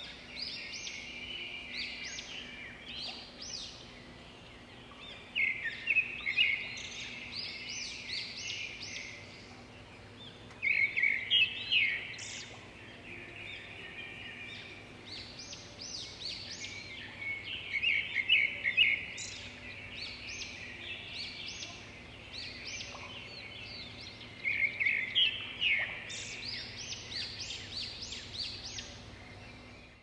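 Wild birds chirping and twittering, many quick high notes overlapping, swelling into louder bouts about every six or seven seconds. A faint steady low hum lies underneath.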